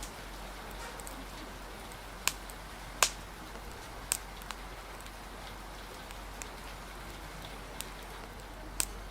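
Steady hiss of falling rain, with a few sharp pops and cracks from a crackling wood fire scattered through it, the loudest about three seconds in.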